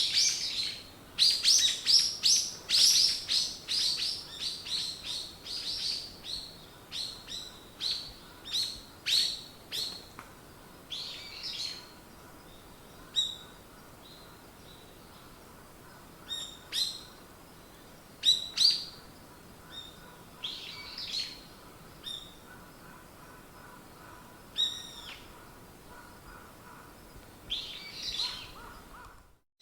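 Wild songbirds chirping and singing: a fast run of repeated downward-sweeping notes over the first ten seconds, fading out, then scattered single chirps and short phrases.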